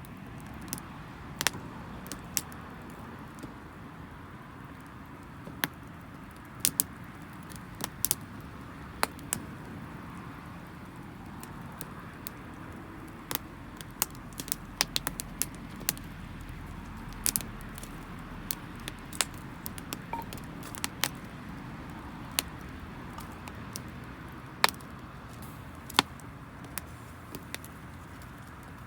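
Wood fire crackling: irregular sharp pops, several clustered together, over a steady low rush of burning. The firewood is damp and drying as it burns.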